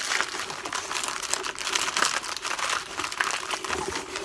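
Crinkling and rustling of first-aid supplies in their packaging being handled, a dense run of small crackles.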